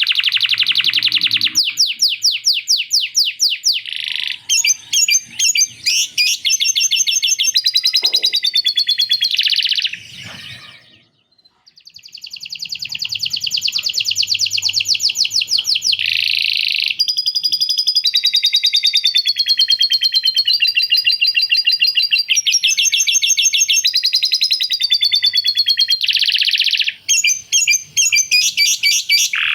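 Canary singing a long song of fast trills and rolled repeated notes, broken by a short pause about eleven seconds in. It is a canary schooled on lovebird chatter ('isian lovebird').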